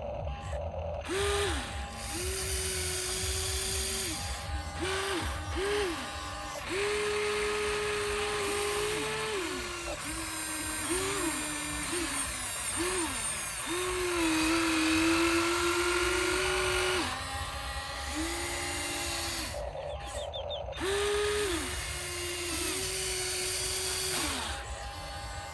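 Small electric gear motors of remote-control toy construction vehicles whining in short runs, starting and stopping again and again, each run rising in pitch as it starts and falling as it stops, over a low rumble.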